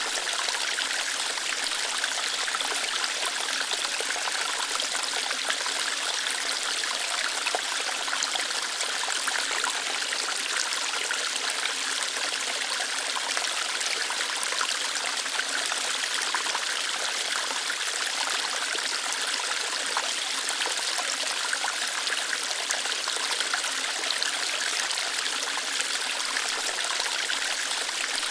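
Small waterfall flowing lightly over rocks: a steady, even splashing and trickling of water, bright and hissy, with no deep rumble.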